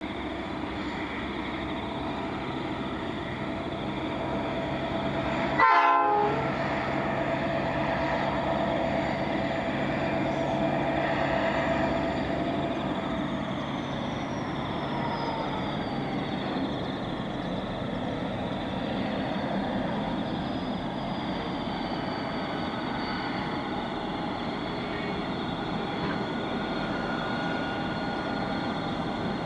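Several diesel-electric freight locomotives running as a train approaches, a steady drone with held tones. There is a brief loud burst about six seconds in, and the tones slide down in pitch between about 13 and 17 seconds in, as a passing locomotive would make.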